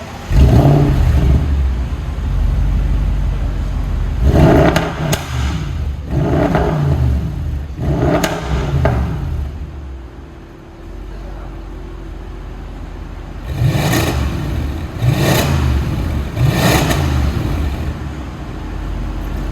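2014 Audi S8's 4.0 TFSI twin-turbo V8 through a custom valved exhaust, revved in short blips from idle: four revs, a few seconds of steady idle, then three more.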